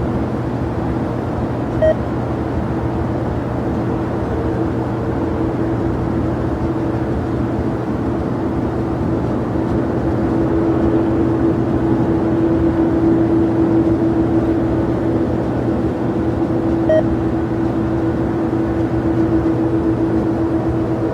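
Jet airliner engines running steadily, a constant hum with a few held low tones that grows somewhat louder midway, with two brief clicks.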